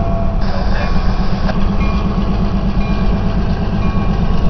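Freight train of boxcars rolling past, a steady low rumble with a few faint thin tones above it.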